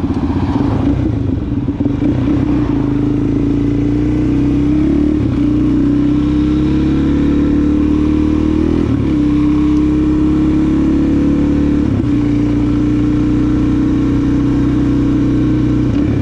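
Suzuki DR-Z400SM's single-cylinder four-stroke engine running under way through its new exhaust tip, the engine note dropping briefly at each of several gear changes, about every three to four seconds.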